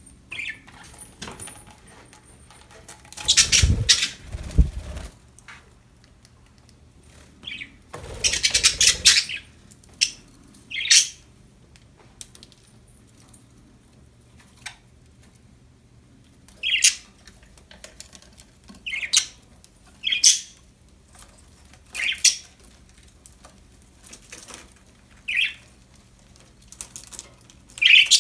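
Pet budgerigars giving short, separate chirps, mostly in the second half, with two longer noisy bursts of what sounds like wing flapping about three and eight seconds in.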